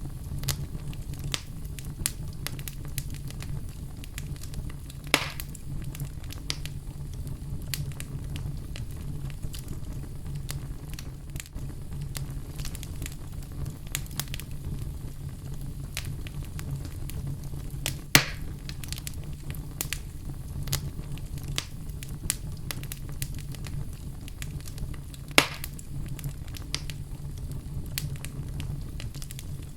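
Wood fire burning in a fireplace, crackling steadily with small snaps over a low rumble. Three louder pops stand out, about 5, 18 and 25 seconds in.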